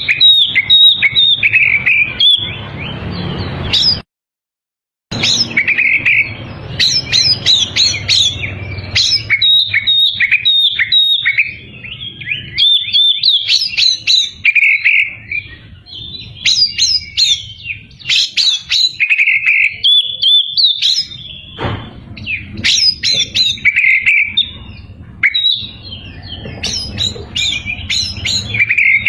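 Oriental magpie-robin (kacer) singing in full voice: a continuous run of rapid, varied whistles and chirps. The song breaks off into complete silence for about a second, about four seconds in.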